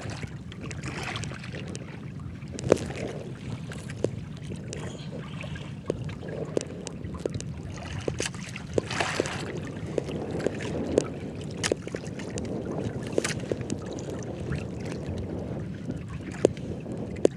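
Water sloshing against a small boat's hull with wind on the microphone, broken by scattered sharp knocks and taps on the boat.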